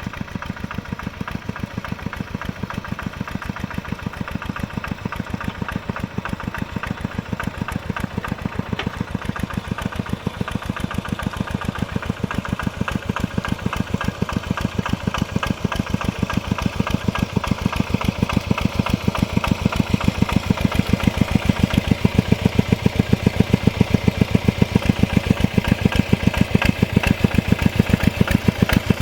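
Mini tractor engine running steadily while plowing, with a rapid, even firing beat that grows gradually louder toward the end.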